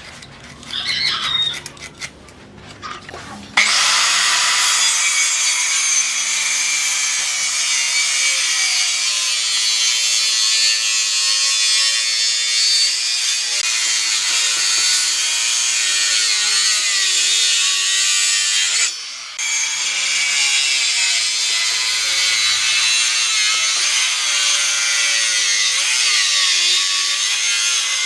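Electric power tool working wood, its motor pitch wavering as the load changes. It starts about three and a half seconds in and cuts out briefly about two-thirds of the way through. Before it starts, a rooster crows faintly.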